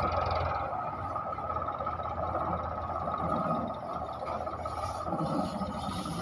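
4610 tractor engine running, with its low engine hum fading about a second in while a steady rumble goes on.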